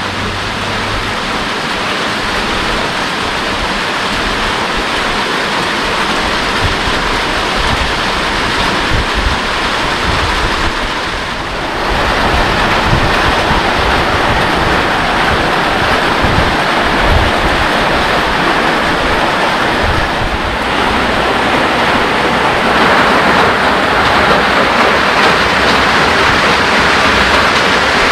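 Heavy rain falling steadily, getting louder about twelve seconds in and again later on.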